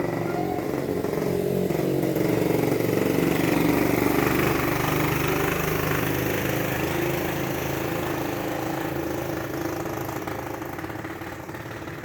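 A motor vehicle engine, likely a motorcycle, running as it passes by, growing louder over the first few seconds and then slowly fading away.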